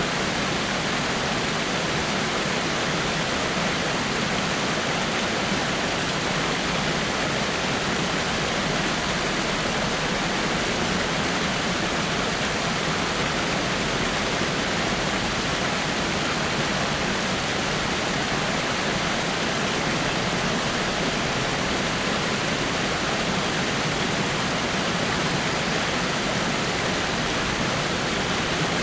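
Water falling over rocks in a small waterfall: a steady, unbroken rushing.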